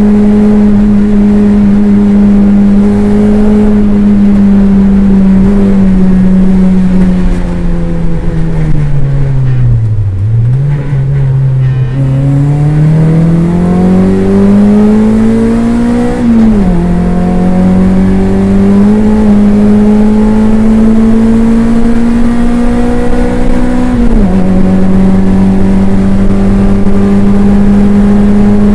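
Toyota MR2 race car's engine heard from inside the car on track. The revs hold steady, sink gradually to a low point about ten seconds in, then climb again, with sudden drops in pitch at gear changes about sixteen and twenty-four seconds in.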